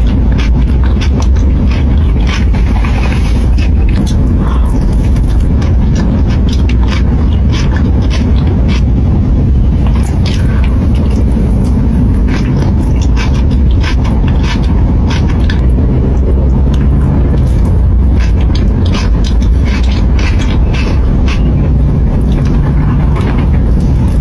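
Close-miked eating of chocolate ice cream: many short scrapes, clicks and mouth smacks over a steady low rumble.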